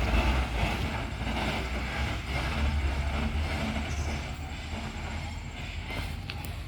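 Heavy truck's diesel engine running, a steady low rumble that eases a little after the first second or so.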